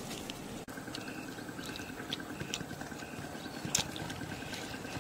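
A person gnawing and chewing on a roasted beef hoof, with scattered short clicks, the sharpest about four seconds in, over a faint steady high pulsing in the background.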